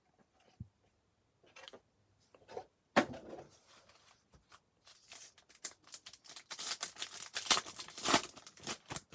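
A trading card pack's plastic wrapper being torn open and crinkled, in a dense crackling run over the last few seconds, after a single sharp knock about three seconds in.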